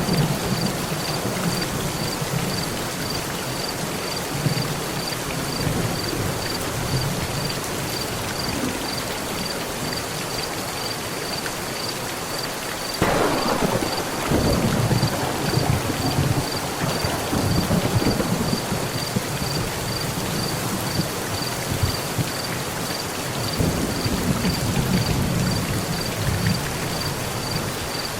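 Steady heavy rain on a metal roof with thunder: a sudden thunderclap about halfway through that rolls on as a rumble for several seconds, and another rumble near the end.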